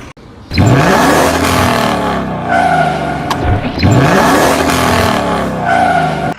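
A vehicle engine revving up with a loud rush of noise, its pitch rising, twice, about three seconds apart.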